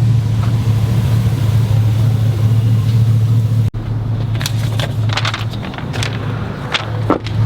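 Pickup truck engine idling steadily, with a short break a little under four seconds in and brief higher sounds over it in the second half.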